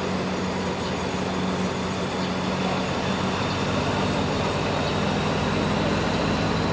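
Freight train running by: a steady low diesel locomotive drone under the continuous rolling noise of the wagons on the rails, growing slightly louder.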